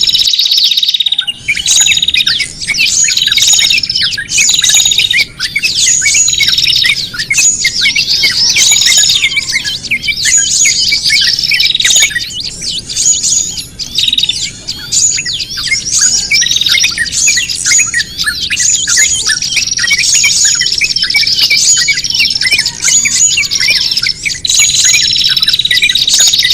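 Bird-trapping lure recording of many small songbirds calling noisily together: dense, rapid chirps and squawks, with a short high note repeating about every second and a few longer held whistles. It is the 'noisy birds' lure mix, meant to sound like agitated, distressed birds so that small birds come in.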